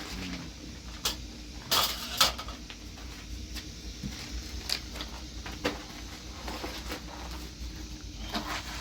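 A handful of separate sharp knocks and clatters, as of hard objects being handled and set down, over a low steady hum.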